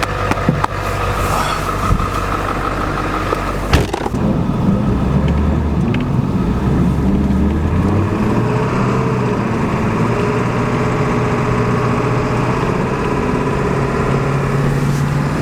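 Vehicle engine running. Its pitch climbs over a few seconds as the revs rise, then holds steady, with a few knocks early on.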